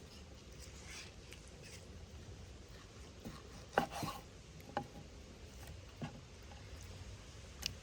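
A handful of light, sharp knocks and clicks, about five spread over several seconds with a close pair near the middle, over a steady low background rumble.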